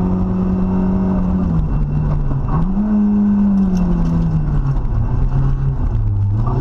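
Rally car engine heard from inside the cabin at speed, over road and wind noise. The engine note holds steady, dips and climbs back about two seconds in, then falls away slowly as the car slows into a corner, and rises again near the end as it accelerates out.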